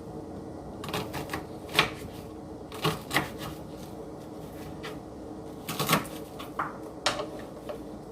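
Irregular sharp clicks and knocks, about eight, spread unevenly, from kitchen work with a knife and onion pieces on hard surfaces, with a steady low hum underneath.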